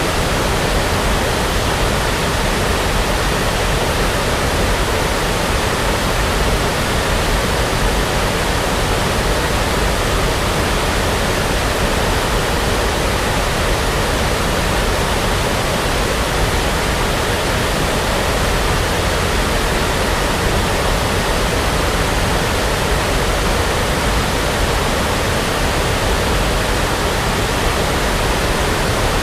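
Steady, unchanging brown noise for sleep: an even, deep rushing hiss weighted toward the low end, like a distant waterfall.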